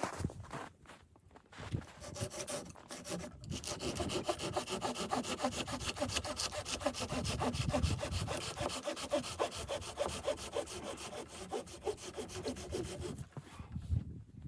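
Hand saw cutting through wood in quick, even back-and-forth strokes. The sawing starts about three seconds in and stops about a second before the end.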